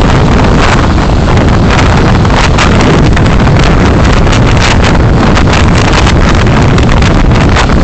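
Loud, steady wind and road noise from a moving car, picked up by the dashcam's microphone, with constant rough buffeting.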